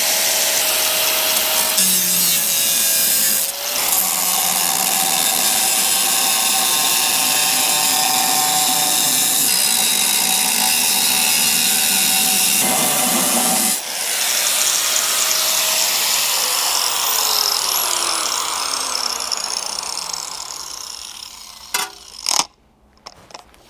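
Angle grinder with a cut-off wheel cutting into an engine oil pan: a loud, steady grinding whine that dips briefly twice as the cut is eased. About 15 seconds in, the grinder is let off and winds down, its pitch falling over several seconds, followed by a couple of clicks near the end.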